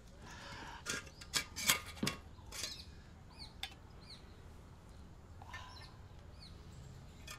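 Small birds giving short, quick chirps several times, faintly, from between two and three seconds in. In the first two seconds there are a few clicks and knocks.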